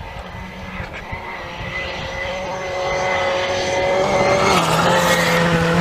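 Rally car on a gravel special stage, its engine at high revs growing louder as it approaches. The engine note drops a step about four and a half seconds in, then the sound cuts off abruptly.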